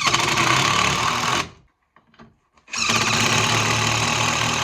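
A handheld power tool running in two bursts: one about a second and a half long, then a short pause, then a second burst of over two seconds.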